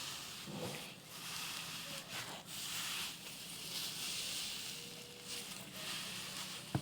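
Hands squishing and kneading slime packed with micro styrofoam beads: a soft rustling noise that swells and fades in waves, with a sharp click near the end.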